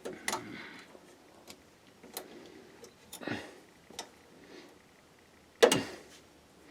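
Scattered light clicks, taps and rustling of power-supply cables and connectors being handled inside a desktop PC case, with one sharper, louder knock near the end.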